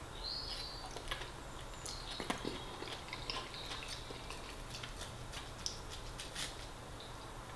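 A man chewing a mouthful of tomato and salad, with quiet wet mouth clicks and smacks scattered through, and a few light taps of a metal fork against the plate.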